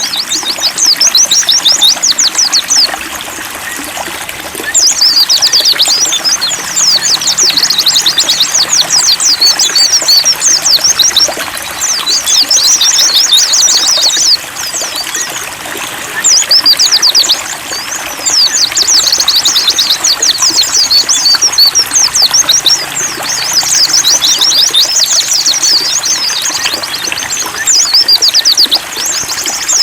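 White-eyes (pleci) singing fast, high twittering phrases in runs of a few seconds with short pauses, over a steady trickle of running water.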